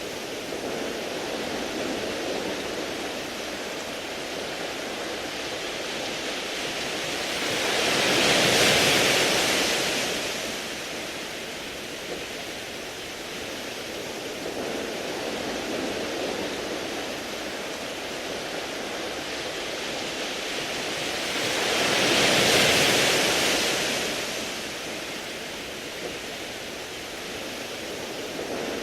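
Waves washing in over a beach of smooth round pebbles: a steady surf hiss with two waves swelling up and fading away, one about eight seconds in and another about twenty-two seconds in.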